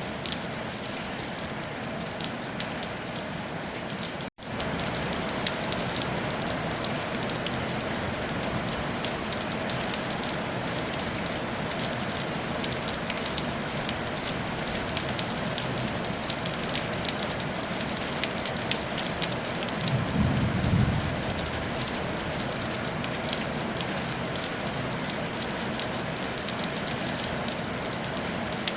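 Steady rain pattering on a tile roof, with dense fine drop ticks. The sound cuts out for an instant about four seconds in, then comes back slightly louder. A brief low rumble comes about two-thirds of the way through.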